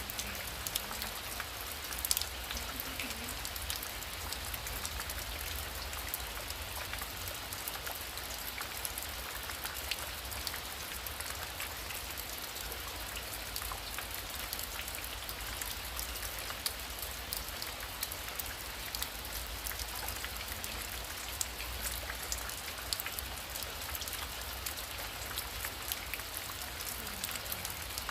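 Heavy rain falling steadily, a dense patter of individual drops over a constant rushing hiss.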